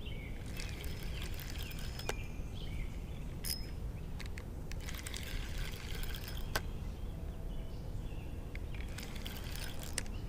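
Flooded creek water rushing steadily in a fast current, with scattered light clicks over it.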